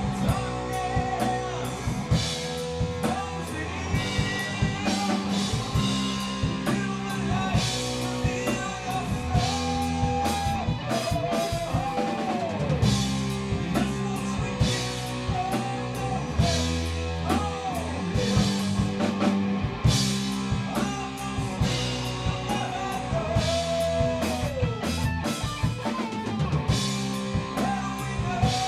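Rock band playing live: drum kit, bass guitar and electric guitar, with lead guitar lines that bend and slide down in pitch over a steady beat.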